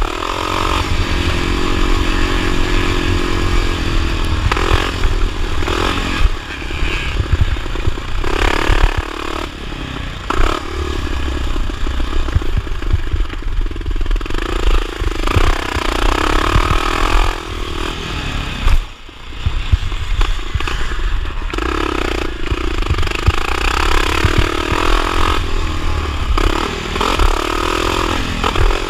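1979 Honda XR500's single-cylinder four-stroke engine running hard under race throttle, its pitch rising and falling as it revs, with clatter from the bike over a heavy low rumble. The engine note drops away briefly a little past halfway, then picks up again.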